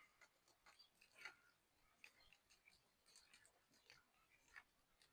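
Near silence with a few faint, short clicks and taps scattered through it.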